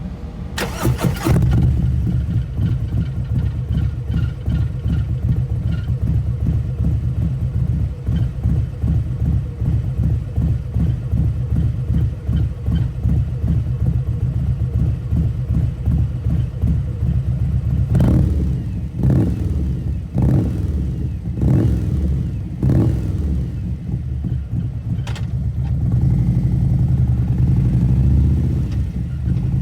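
Harley-Davidson CVO Road Glide V-twin (Milwaukee-Eight 117) with CFR slip-on mufflers and a T-man 216 cam, started about a second in and settling into a lumpy, loping idle. About two-thirds of the way through come five quick throttle blips. Near the end it holds at a slightly higher speed.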